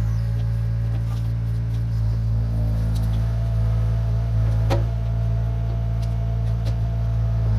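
1972 Chevrolet C50 dump truck's engine running steadily, with a single sharp knock about two-thirds of the way through.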